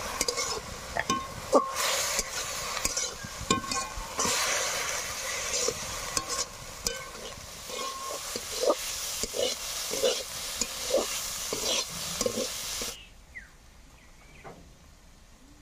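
Chopped greens sizzling in a hot metal wok while a spatula stirs them, scraping and clacking against the pan again and again. The sizzling cuts off suddenly near the end, leaving only a faint background.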